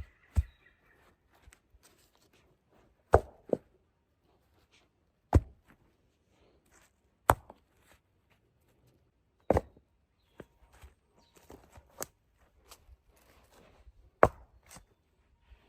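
A hand tool striking wood in sharp single blows, about one every two seconds, with light rustling and handling between strikes.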